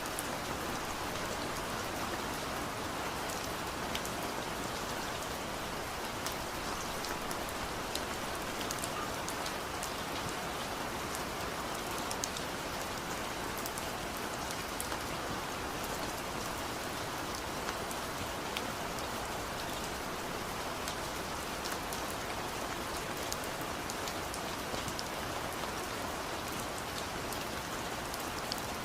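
Steady rain falling, an even hiss with many fine drop ticks, without pause or change.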